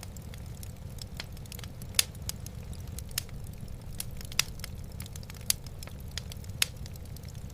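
Wood fire burning in a fireplace: steady crackling with sharp pops every second or so, over a constant low rumble.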